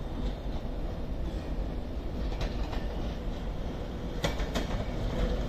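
Avanti West Coast Class 390 Pendolino electric train running through the station without stopping: a steady rumble of wheels on rails. Sharp clicks come in from about two seconds in.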